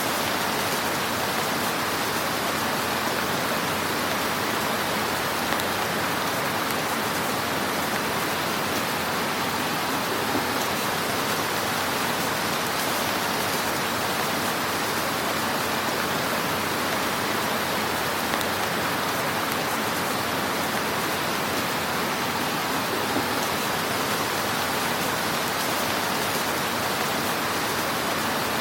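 Wood fire in a fireplace crackling: a steady, dense hiss of small crackles with a few slightly louder pops.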